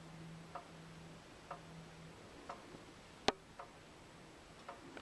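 Faint, evenly spaced ticks about once a second, like a clock ticking, with one sharper, louder click a little over three seconds in.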